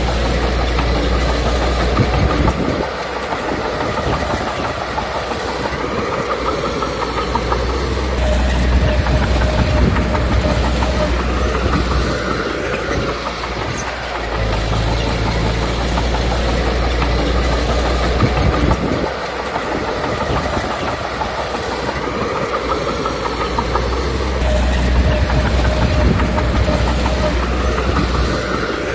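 Komatsu D21P crawler bulldozer working: its diesel engine runs steadily under load while the steel tracks clank continuously. The low engine note swells and fades about every eight seconds.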